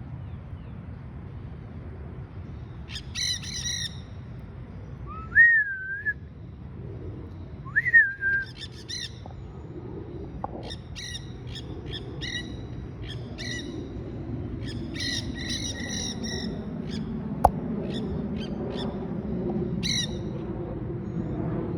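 Quaker parrots (monk parakeets) giving short, harsh squawking calls, repeated in clusters, with two loud wavering whistled notes a few seconds in. A single sharp click comes near the end.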